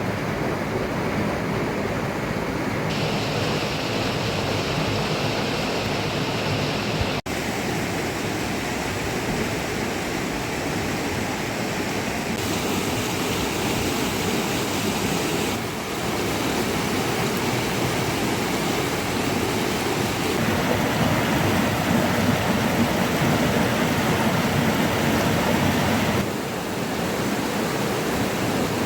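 Steady rush of water, a dense even noise whose tone changes abruptly several times.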